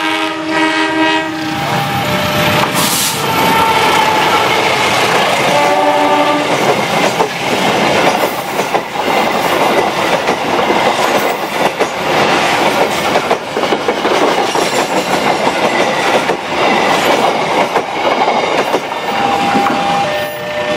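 Train horn sounding for about the first second and a half, a short second horn blast about six seconds in, then a long train passing close by at speed: a steady rush of noise with wheels clicking over rail joints.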